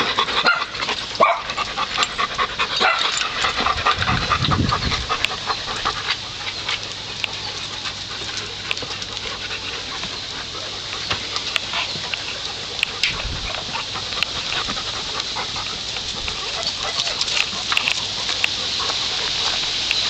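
Small dogs making sounds at close range, with a busy patch of short sharp noises in the first six seconds and a brief low rumble about four seconds in, then a steadier hiss with occasional ticks.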